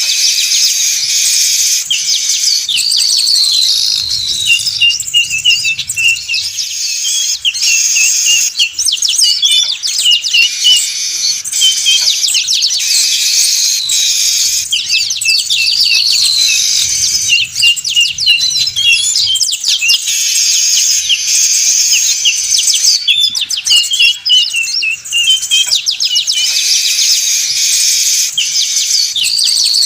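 Weaver birds (manyar) chattering noisily: a dense, continuous jumble of high chirps, twitters and short descending trills, used as a lure call for trapping. The same stretch of calls comes round again about every eleven seconds, as in a looped recording.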